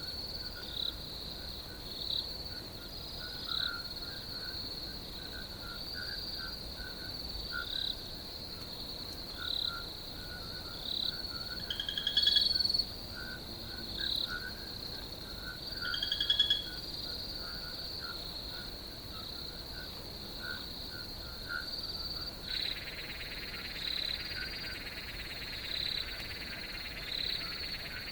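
Crickets trilling steadily in a high, continuous chorus, with short chirping calls repeating underneath. Two louder calls stand out near the middle, and a second, lower buzzing chorus joins about three-quarters of the way through.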